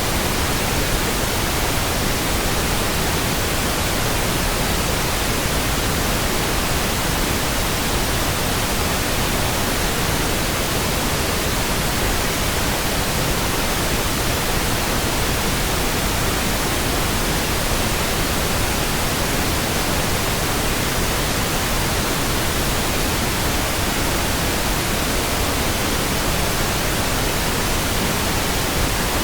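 Steady pink noise: an even, unchanging hiss across all pitches, with no tones or breaks.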